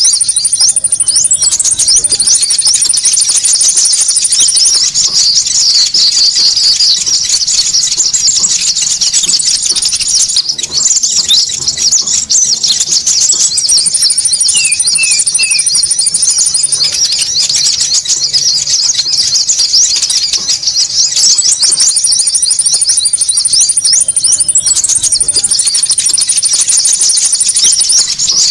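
Bird-lure recording of konin birds calling noisily: a dense, loud chatter of rapid high-pitched chirps, overlaid with long, even, very high trills that start and stop every few seconds.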